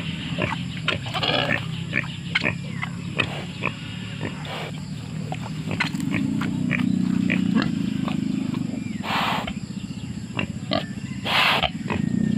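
Wild pigs grunting in a continuous low run, with scattered short clicks and two short, louder sounds about nine and eleven seconds in.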